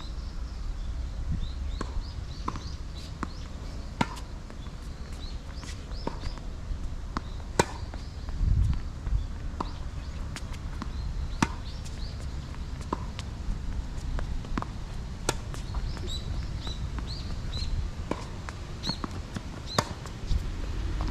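Tennis rally on a hard court: irregular sharp pops of balls struck by rackets and bouncing on the court, over a steady low rumble of strong wind on the microphone.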